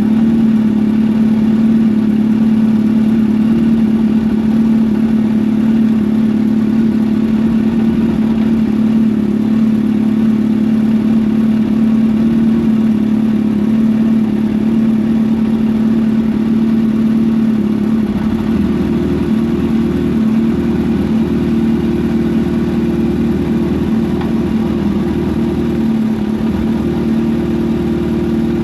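Kawasaki Ninja H2's supercharged inline-four idling steadily while warming up after a cold start. The idle note changes about two-thirds of the way through.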